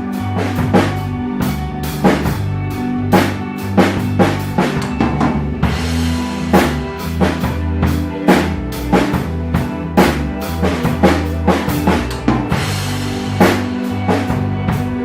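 Drum kit played in a steady rock beat of kick and snare strikes over an ambient rock backing track with sustained bass notes. Cymbal crashes wash over the beat about six seconds in and again near thirteen seconds.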